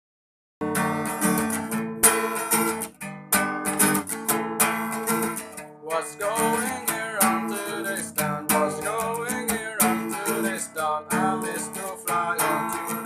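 Instrumental song intro of strummed acoustic guitar chords, starting about half a second in; from about six seconds a melody line with sliding notes plays over the strumming.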